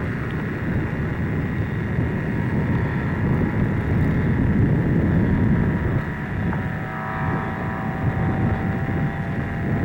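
Radio-controlled scale model airplane engine running with a steady drone, with wind buffeting the microphone.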